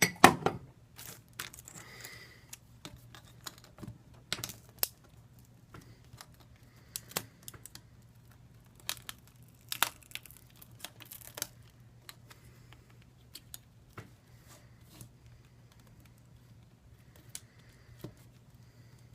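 Irregular small clicks and taps of plastic guitar picks and pry tools being worked in under a Samsung Galaxy S3's glued-on screen glass to separate it, over a low steady hum. The clicks are loudest near the start and thin out later.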